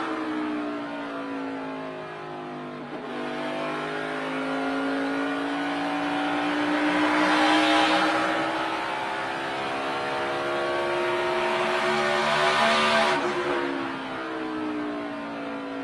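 On-board sound of a NASCAR Cup car's V8 engine at racing speed. The engine note falls as the driver lifts, climbs steadily under full throttle for about ten seconds, then falls again as he lifts near the end.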